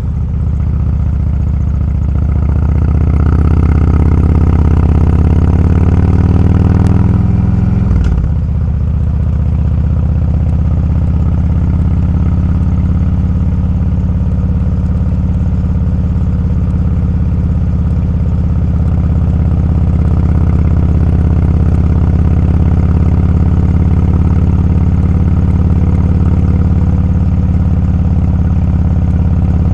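Motorcycle engine running under load, rising in pitch as it accelerates over the first several seconds. About eight seconds in the pitch dips sharply, then it holds a steady pitch while cruising.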